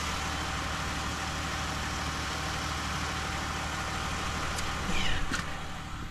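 Van engine running steadily under a wash of noise. About five seconds in comes a short louder rasp with a falling whine, and then the engine sound drops away.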